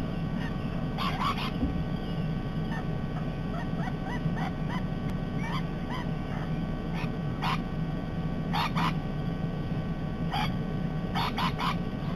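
Parrots giving short harsh screeches in clusters every second or two, with softer chirps between, over a steady low hum.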